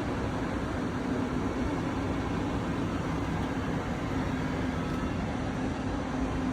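An engine running steadily, with a constant low hum over even mechanical noise.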